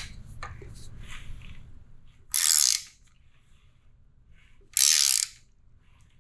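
Ratchet wrench turning the engine over by the crankshaft to bring the timing marks into line: two short bursts of ratchet clicking about two and a half seconds apart, with a few faint clicks between.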